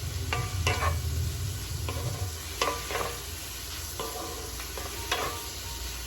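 Chicken pieces sizzling in a pan with soy sauce while being stirred, the utensil clinking and scraping against the pan several times.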